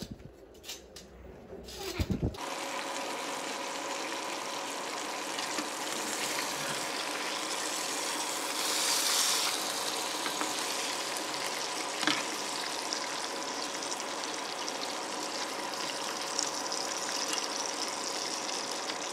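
A few knocks at the start, then French toast sizzling in butter in a small frying pan: a steady hiss with a faint steady tone over it, and a short click about twelve seconds in.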